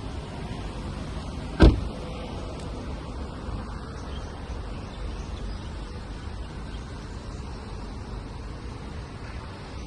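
A car door on a 2016 Hyundai Tucson shutting once with a single loud thump about a second and a half in, over a steady low rumble.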